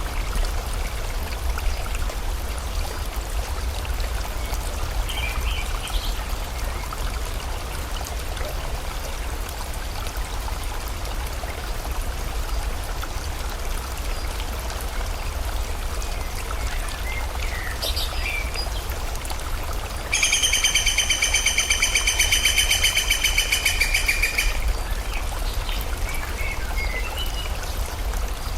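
Steady rush of flowing stream water with rain, under a few short bird chirps. About two-thirds of the way through, a loud, rapid, high trill comes in and lasts about four seconds.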